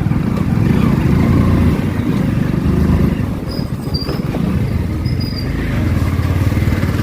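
Motorcycle engine running under way, a steady low drone that eases off briefly midway.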